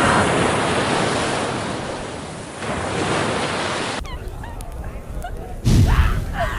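Rushing surf-like noise of waves, dipping and swelling again, which cuts off abruptly about four seconds in. A quieter mixed passage with faint chirps follows, then a sudden low rumble near the end.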